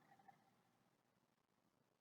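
Near silence: faint room tone, with one tiny tick about a third of a second in.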